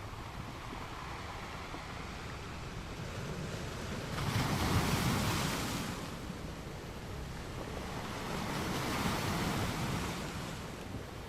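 Ocean waves washing onto a beach: a steady surf hiss, with one wave breaking loudly about four seconds in and a second, softer swell near the end.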